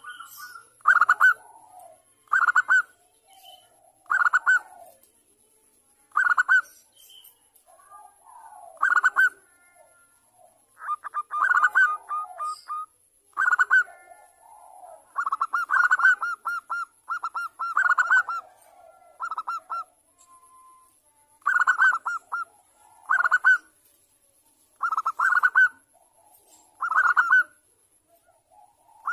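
Zebra dove (perkutut) cooing: short bursts of rapid staccato notes, repeated every second or two.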